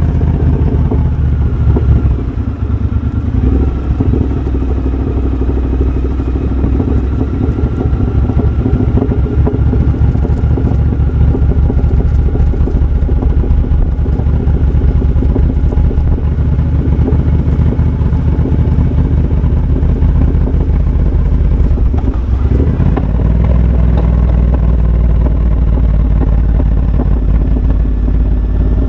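2023 Triumph Bobber's 1200 cc parallel-twin engine running through a de-catted Tec X-pipe and Motone shorty exhaust while being ridden, the note rising and falling with the throttle. It drops off briefly about two seconds in, and after about 22 seconds it settles to a lower, steady note.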